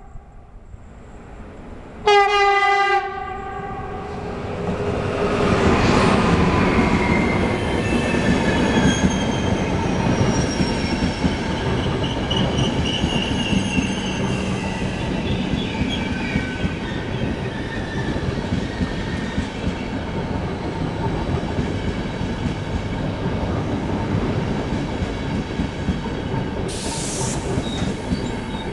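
ÖBB EuroCity train: the electric locomotive sounds a short horn blast about two seconds in, then the train runs past, its wheels and coaches making a steady loud rumble with whining tones over it. There is a brief high wheel squeal near the end.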